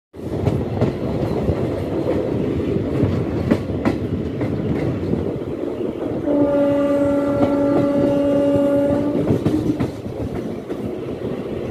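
Passenger train running at speed, heard from an open coach doorway: a steady wheel-on-rail rumble with clacks over the rail joints. About six seconds in, the locomotive's horn sounds one long blast lasting about three seconds.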